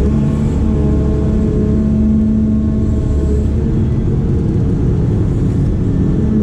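Diesel engine of a heavy digging machine running steadily under work, with a deep rumble and a few held tones that swell and fade as the load changes.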